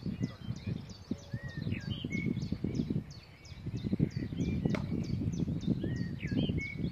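A bird calling a rapid series of short, high, falling chirps, about four a second, with other birds whistling, over a low outdoor rumble. A single sharp click a little after halfway.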